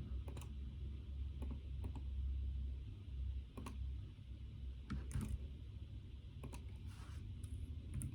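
Computer keyboard typed on in sparse, irregular keystrokes, about ten over several seconds, with a steady low hum underneath.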